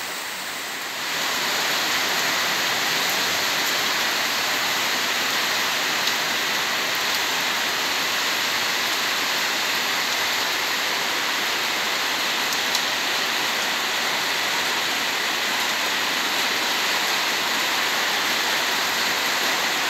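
Heavy rain falling steadily on the street and roofs, a dense, even hiss that grows a little louder about a second in.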